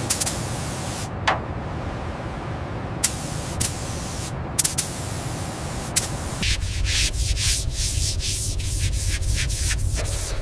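A steady abrasive rubbing, like sanding a surface, with scattered sharp clicks. About six and a half seconds in it shifts to a lower rumble with quick repeated strokes, about three a second.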